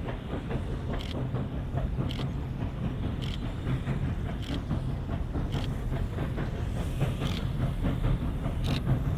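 Train running, with a steady low rumble and a short, sharp beat about once a second.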